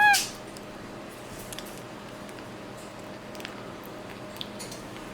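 Capuchin monkey gives one short, high chirp right at the start, then faint wet smacking and small clicks as it chews a mushy banana.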